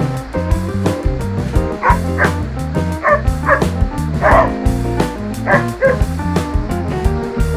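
A dog barking and yipping in short bursts, several times, over background music with a steady beat.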